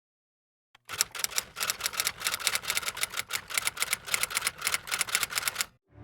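A fast run of sharp clicks, about six or seven a second, starting about a second in and stopping just before the end, like rapid typing.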